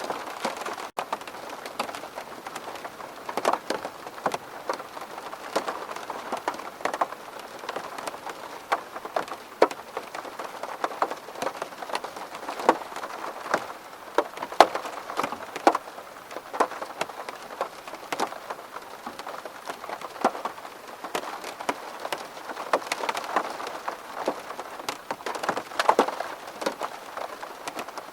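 Rain falling steadily on a window, with many separate drops tapping sharply and irregularly against the glass.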